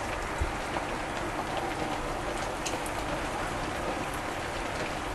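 A steady outdoor hiss, like rain or wind, with a few faint short chirps from small aviary birds scattered through it.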